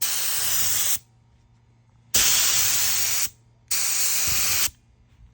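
Paint spray gun spraying Awlgrip topcoat onto a boat engine cowling in three bursts of about a second each, with short pauses as the trigger is released.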